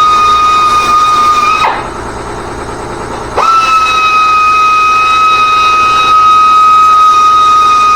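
Power tool running with a steady high-pitched whine. It cuts off just under two seconds in with a quick drop in pitch, then starts again about a second and a half later with a fast rising whine and runs on steadily.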